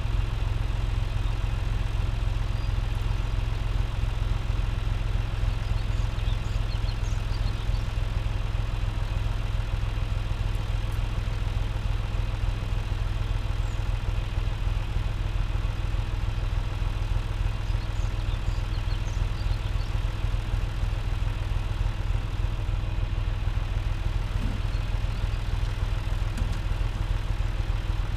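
Tractor engine running at a steady speed, a constant deep hum with no change in revs.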